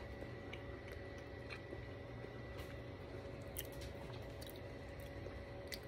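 Faint close-up chewing of a mouthful of pancake, with a few soft mouth clicks scattered through, over a steady low hum.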